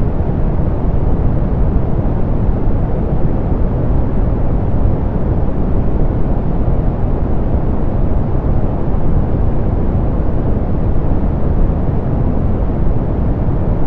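Steady, softened pink noise: an even hiss weighted to the low end and muffled in the highs, unchanging throughout.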